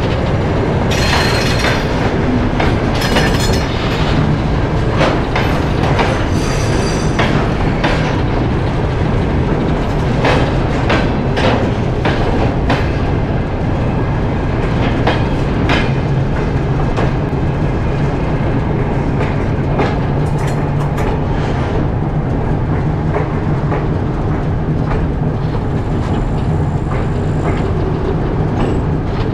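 Freight train hauled by a TEM2 diesel shunting locomotive rolling by. Wheels clatter over rail joints and the wagons knock and clank over a steady low rumble, with several short wheel squeals in the first few seconds.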